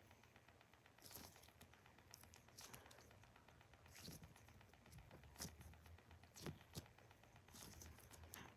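Near silence with faint, scattered soft crinkles and taps from a squishy toy being squeezed and handled.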